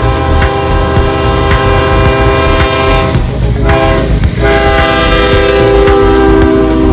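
Freight locomotive's multi-chime air horn blowing a long blast, a short one, then another long one, over the heavy low rumble of the moving train.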